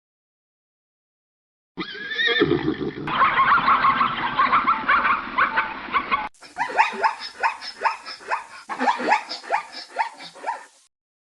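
Animal calls, two clips edited back to back. The first is a drawn-out call lasting about four seconds. The second, about six seconds in, is a fast run of short calls, several a second, each falling in pitch.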